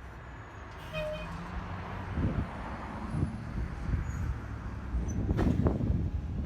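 A bus in motion, heard from inside: a steady low rumble with knocks and rattles, the loudest about five and a half seconds in, and a brief tone about a second in.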